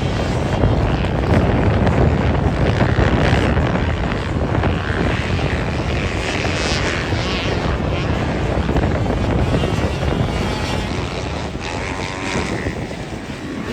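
Motocross dirt bikes running on the track, their engines rising and falling as they rev through the course.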